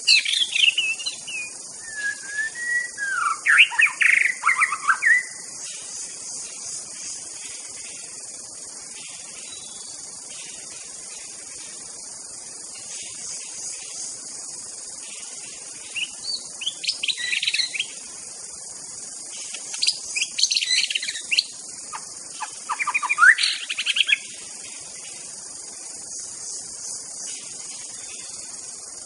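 White-rumped shama singing in four bouts of quick, varied whistled phrases, over a steady high drone of insects.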